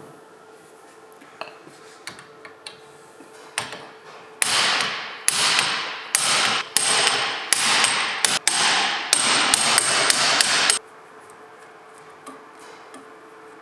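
Metal being struck with a hammer: a few light taps, then about nine hard blows over some six seconds, each ringing and fading before the next. The hammering stops suddenly near the end.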